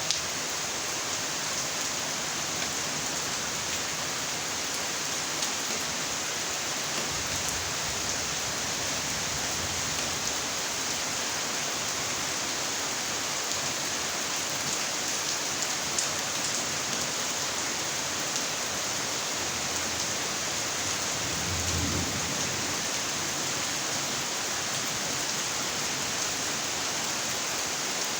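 Steady heavy rainfall, an even hiss of rain pattering on surfaces, with a brief low rumble about three-quarters of the way through.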